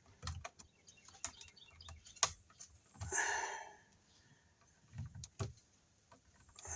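Light clicks and taps of stiff solid copper house wires being handled and lined up to be twisted together, with a short scraping rustle about three seconds in and a few soft low thumps about two seconds later.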